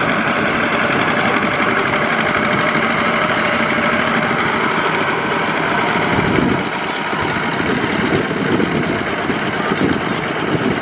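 Tractor diesel engine running steadily with a rapid knocking beat, its level dropping slightly about six and a half seconds in.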